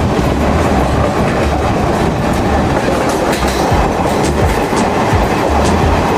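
Passenger express train running on the track: a steady rumble of the coaches with irregular sharp clacks of the wheels over rail joints.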